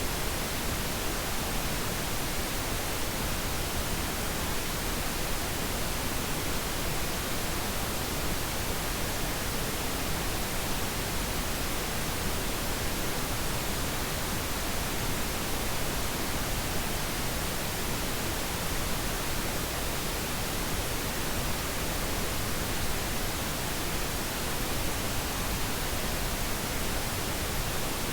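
Steady synthetic pink noise, an even, unchanging hiss across the whole range with no events, used as a sleep aid.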